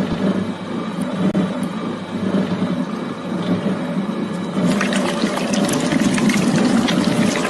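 Shredder running, wet and churning as it chews through watermelon, turning louder and more crackly about five seconds in.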